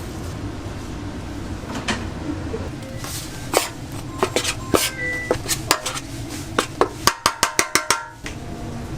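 Metal utensils and trays clinking and clicking in a shop kitchen: scattered sharp clicks, some ringing briefly, that build to a quick run of about eight clicks near the end and then stop.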